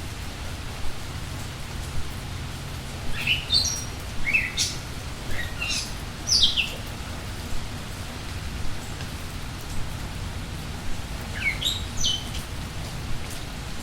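Steady rain falling while small songbirds chirp: a run of short, falling chirps between about three and seven seconds in, and another brief run near the end.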